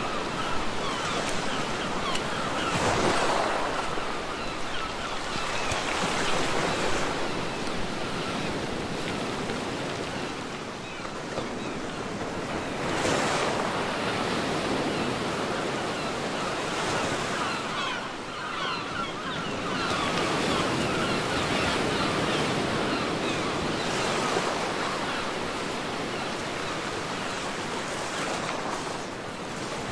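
Ocean waves breaking and washing up on a beach, the surf swelling and falling back every few seconds.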